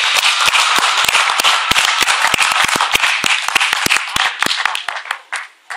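A group of people clapping and applauding, dying away about five seconds in.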